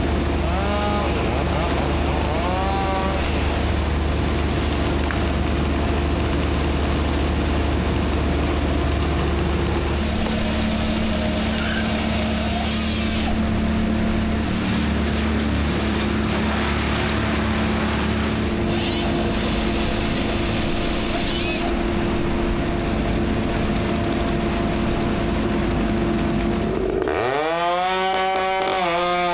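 A machine's engine running steadily under tree-removal work, its sound shifting abruptly several times. Near the end a chainsaw revs up and cuts, its pitch rising and wavering.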